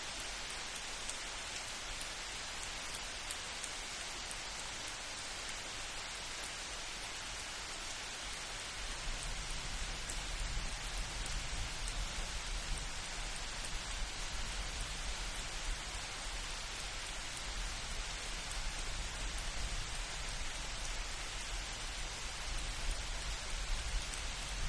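Steady rain falling in a light thunderstorm, an even hiss of many drops. About a third of the way in, a low rumble of distant thunder comes in underneath and carries on.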